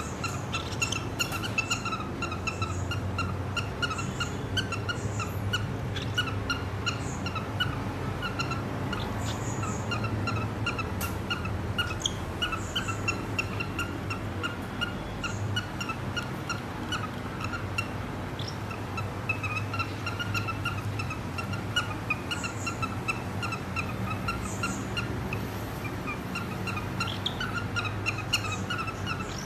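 Cockatiels chirping and warbling, quick short notes repeating without a break, over a steady low hum.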